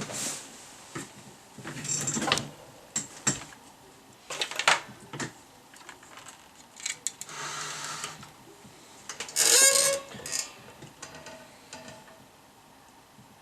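Irregular clicks, scrapes and rattles of tools and parts being handled, loudest in a scraping burst about nine and a half seconds in.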